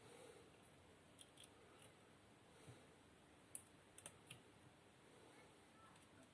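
Near silence with a few faint, sharp clicks, the loudest about three and a half seconds in, as the motor's three phase wires are handled and plugged into the tester's leads.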